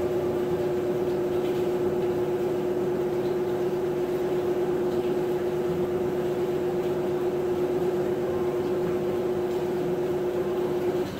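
Maytag top-load agitator washing machine running, a steady motor hum with one constant tone, dropping away abruptly at the very end.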